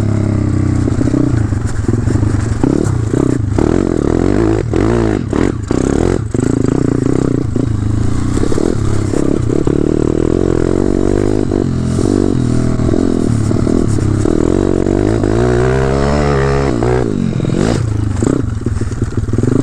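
Single-cylinder four-stroke pit bike engine running and revving up and down while riding, its pitch falling and climbing again near the end. Scattered knocks and clatter throughout.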